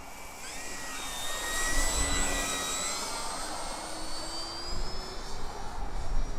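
High whine of an E-flite Turbo Timber Evolution's brushless electric motor and propeller in flight, growing louder about half a second in and drifting slowly in pitch as the plane passes and the throttle changes. Wind buffets the microphone underneath.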